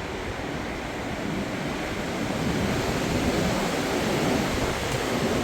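Strong storm wind gusting steadily and buffeting the microphone, building a little louder about two seconds in.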